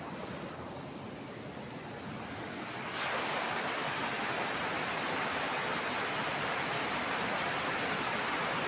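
Heavy rain falling, a steady hiss that turns suddenly louder and brighter about three seconds in.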